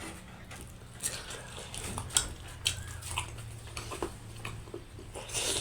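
A person eating close to the microphone: scattered soft clicks and smacks of chewing over a low steady hum.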